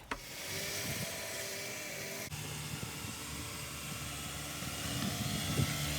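A motor-driven machine running steadily with a rushing hiss. About two seconds in, a low steady hum joins abruptly.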